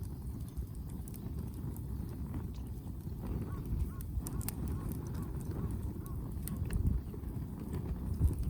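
Wood fire in a wood grill crackling with scattered pops over a steady low rumble. Partway through comes a run of short, evenly spaced high calls, a few a second.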